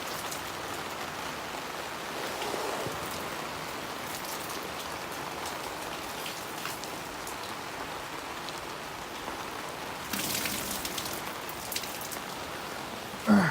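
Heavy cloudburst rain drumming steadily on a tarp overhead, briefly louder and hissier about ten seconds in.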